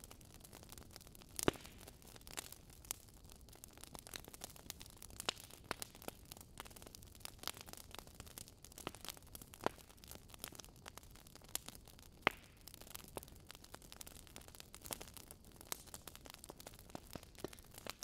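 Wood fire crackling: irregular sharp pops and snaps over a soft hiss, with louder pops about one and a half seconds in and about twelve seconds in.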